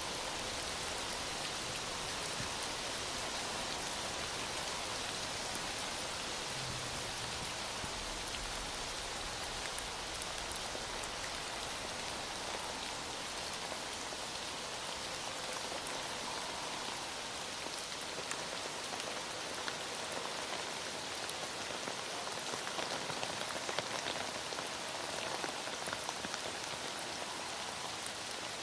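Heavy rain falling steadily, a dense even hiss with the patter of individual drops on a hard surface.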